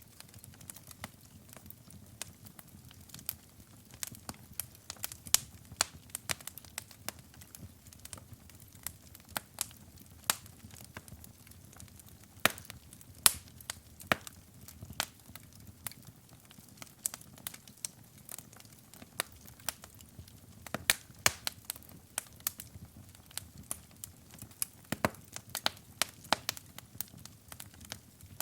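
Wood fire crackling in a fireplace: irregular sharp pops and snaps over a soft low rushing of the flames.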